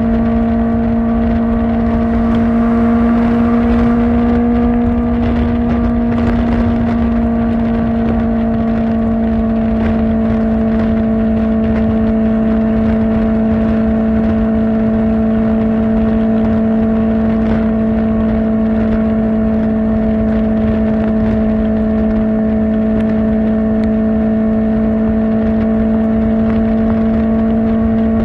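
Kawasaki Ninja ZX-4R's inline-four engine through an Akrapovic exhaust, held at a steady high engine speed while cruising, with wind rush underneath.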